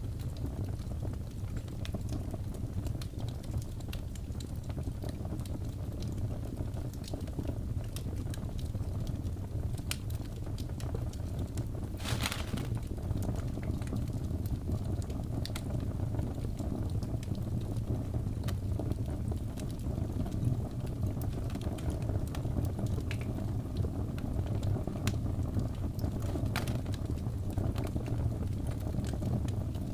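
Wood fire burning: a steady low rumble with scattered small crackles and pops, and a brief louder hissing crackle about twelve seconds in.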